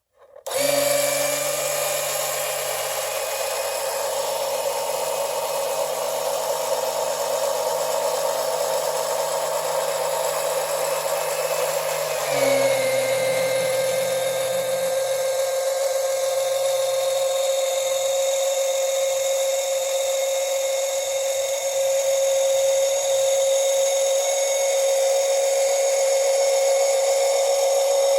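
12-volt DC oil extraction pump's electric motor starting about half a second in and running with a steady whine. About twelve seconds in its pitch drops slightly and the sound changes, then it runs on steadily.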